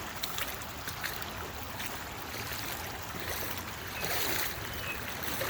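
Floodwater rushing steadily in a fast-running overflow stream, with a brief louder surge about four seconds in.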